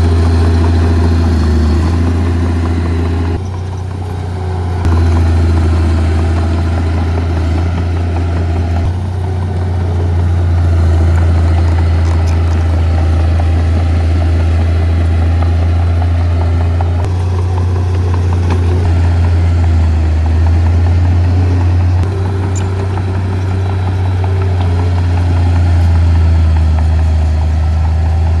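Heavy earth-moving machine's diesel engine running steadily with a strong low drone, dropping briefly for about a second and a half a few seconds in.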